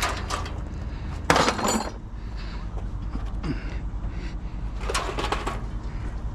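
Scrap metal clattering as pieces are handled and tossed, with one loud crashing clank a little over a second in and another near five seconds, over a steady low hum.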